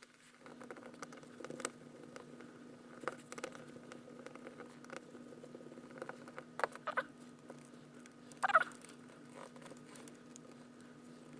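Small clicks and scrapes of a hand tool working the housing screws of an angle grinder and handling its parts, with a sharper group of clicks about two-thirds of the way through, over a steady low hum.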